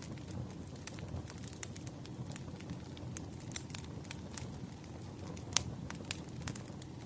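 Campfire crackling: irregular sharp pops and snaps of burning wood over a low steady rumble, with one louder pop about five and a half seconds in.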